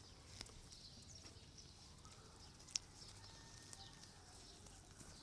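Faint chirping of small wild birds over a quiet background. There is a single sharp click about two and a half seconds in.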